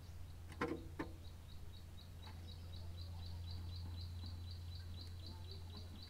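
A bird calling a rapid run of short, evenly spaced high chirps, about five a second, starting about a second in, over a steady low hum. There are two brief knocks in the first second.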